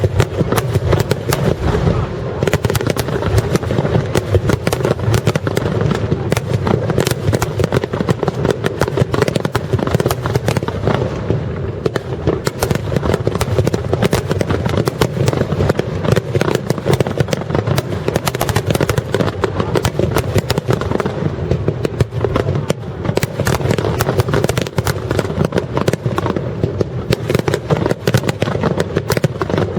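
Fireworks barrage over a lake: a starmine rapid-fire display, shells bursting in a dense, continuous stream of bangs and crackles with no let-up.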